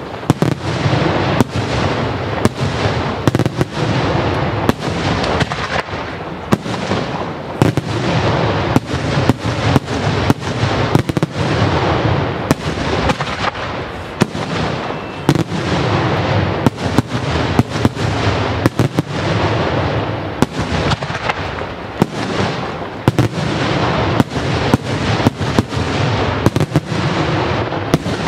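Daytime fireworks: a rapid barrage of aerial shells bursting overhead, with sharp bangs a few times a second over a dense, unbroken crackle of reports.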